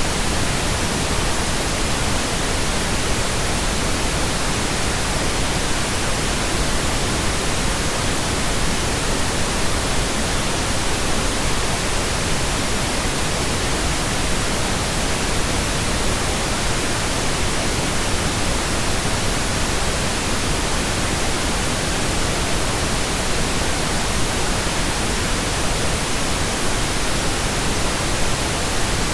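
Steady computer-generated pink noise: an even, unchanging hiss.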